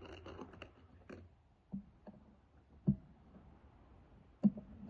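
A few soft clicks and knocks from the PCP air rifle being handled and readied for the next shot, the sharpest about three seconds in and again near the end.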